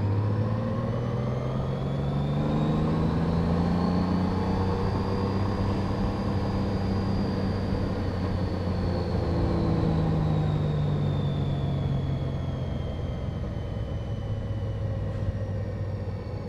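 Honda Gold Wing GL1800 flat-six engine running under way, its pitch rising gently and easing off again through the middle as the bike speeds up and slows, with a faint high whine following the same rise and fall.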